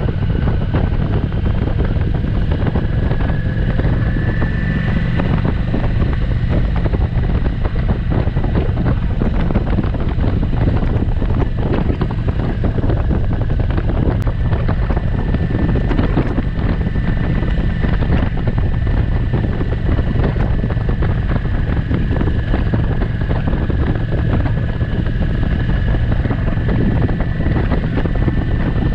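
Kawasaki Vulcan motorcycle running steadily at cruising speed, with heavy wind noise on the microphone and a thin whine that drifts slightly in pitch.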